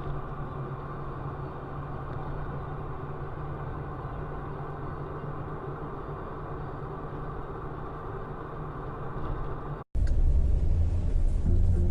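Steady car engine and road noise picked up by a dashcam. About ten seconds in, an abrupt cut gives way to a louder, deeper vehicle rumble.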